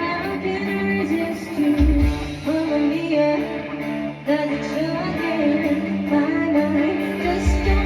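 Live band music with a female voice singing over guitar, bass and drums; the bass comes in heavily about two seconds in and again near the end.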